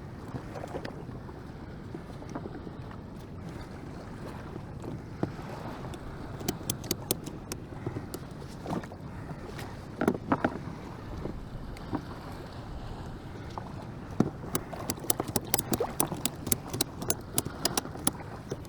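Wind buffeting the microphone as a steady low rumble. From about six seconds in, scattered light clicks and knocks of gear being handled, coming thick and fast near the end.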